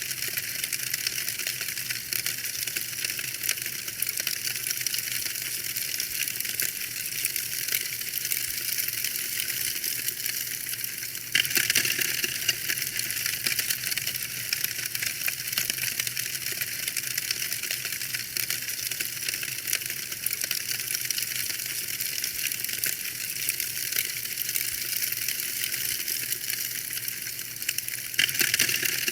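Wood fire crackling in a fireplace: a dense, continuous stream of small pops and snaps, with a sudden step a little louder about eleven seconds in.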